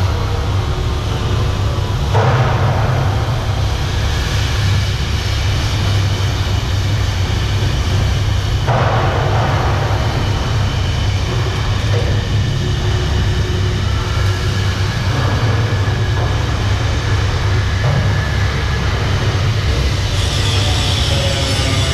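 Steady, loud low drone of a ship's engine-room machinery running, with patches of harsher noise coming and going over it.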